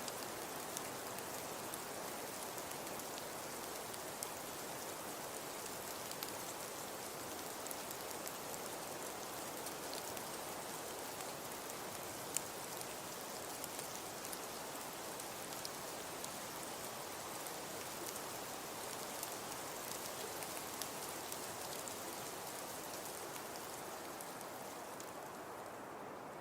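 Fireplace crackling: a steady soft hiss dotted with scattered sharp pops, one louder pop about twelve seconds in.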